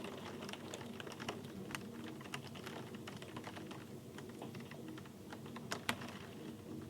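Rain falling, with individual drops landing in irregular, sharp ticks over a steady patter. One drop lands louder about six seconds in.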